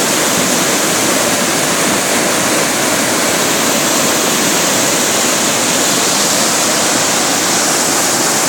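Waterfall: a steady, loud rush of falling water crashing onto rocks, unbroken throughout.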